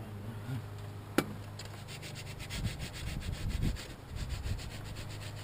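Quick, even hand scraping or rubbing strokes, about seven a second, lasting several seconds, after a single sharp click about a second in; a low steady hum runs underneath.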